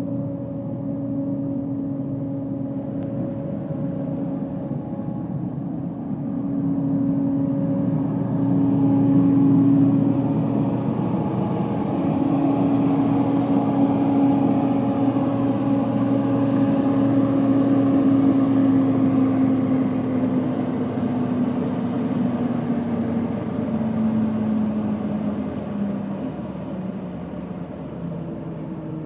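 A 1989 Ford duct-cleaning truck with its Pringle vac unit running: a steady machine hum with a clear pitched tone. It grows louder a few seconds in, and its pitch sags slightly near the end.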